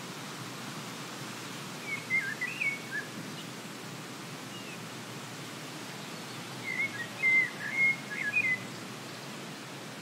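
A songbird singing two short phrases of quick warbling notes, the first about two seconds in and a longer, louder one near seven seconds, over a steady hiss of outdoor ambience.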